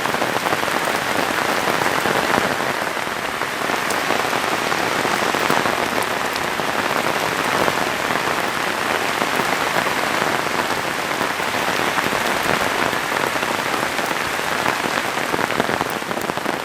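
Heavy rain pouring steadily, a dense even hiss of drops striking the ground.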